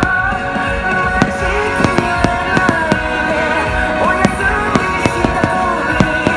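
Fireworks going off in an irregular string of sharp bangs over music with a sustained, wavering melody.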